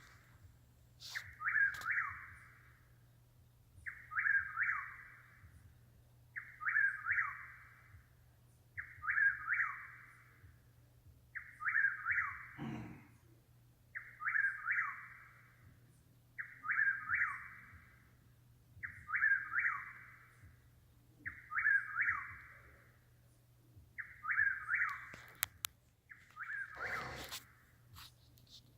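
A bird singing one short two-part phrase over and over, evenly about every two and a half seconds, each phrase the same. There is a faint steady hum, and a brief thump twice.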